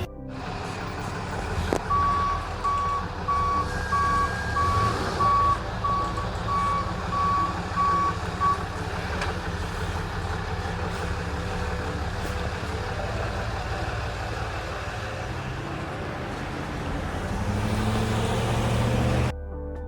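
Truck's reversing alarm beeping about twice a second for several seconds over its running engine. The engine grows louder near the end.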